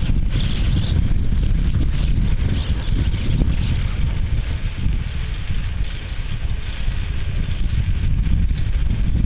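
Steady wind buffeting the camera microphone as a bicycle rides fast downhill, a loud low rumble that covers everything else.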